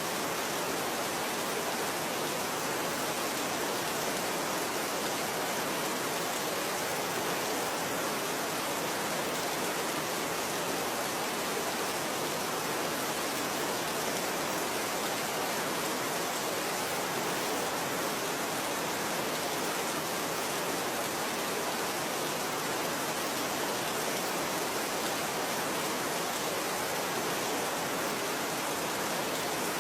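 Steady rain, an even hiss with no distinct drops or changes.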